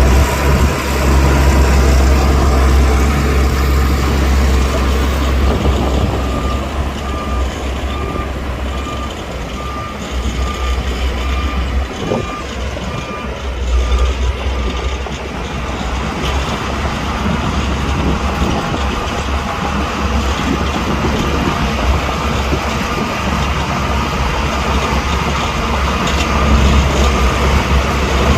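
Heavy diesel earthmoving machinery running with a steady low rumble, while a reversing alarm beeps about twice a second for several seconds in the middle.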